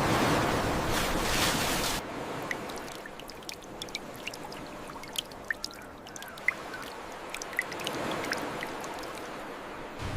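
Rushing water that cuts off abruptly about two seconds in, leaving a quieter watery hiss with scattered small clicks and blips, like bubbles.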